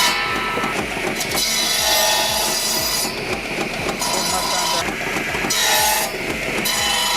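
Electric-motor-driven flywheel wood slicer cutting blocks of wood into chips for wood-gas fuel: a steady mechanical clatter with a rasping swell about every second and a half to two seconds as the heavy wheel bites into the wood.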